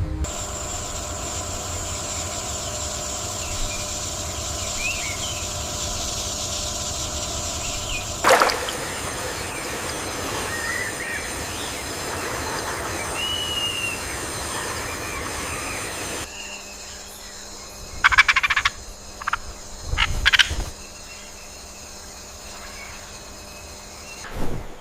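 Tropical forest ambience: a steady high-pitched insect or frog chorus with scattered short bird chirps. The background changes abruptly twice, and a few louder short calls stand out near the end.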